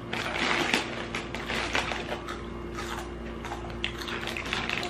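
Crunchy Flamin' Hot Cheetos being chewed, a run of irregular crisp crunches, over a steady low hum.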